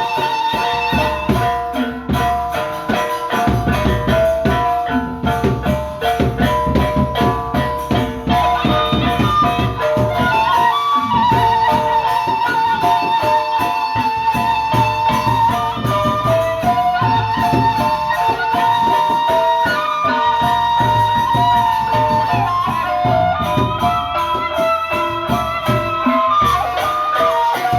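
Gendang beleq ensemble, the Sasak drum-and-gong band of Lombok, playing traditional music: dense, rapid drum and cymbal strokes under a high wind-instrument melody of held, wavering notes.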